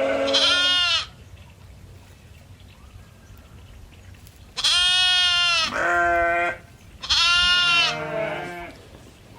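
Goats bleating: one long bleat trails off about a second in, then two more long bleats follow a couple of seconds apart in the second half.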